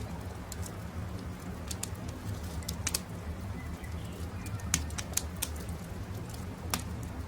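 Wood campfire crackling: irregular sharp pops and snaps, a few louder ones in the second half, over a low steady rumble, with birds calling faintly.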